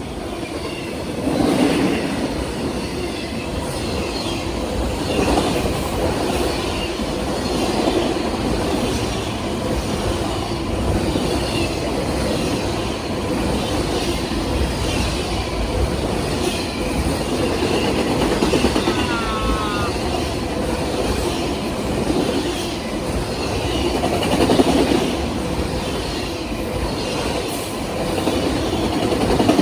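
Union Pacific autorack freight cars rolling past, their wheels clacking over the rail joints in a steady rumble, with faint high wheel squeals now and then.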